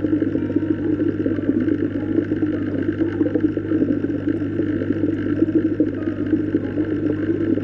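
Steady underwater water sound: a continuous bubbling rush under a low, even hum.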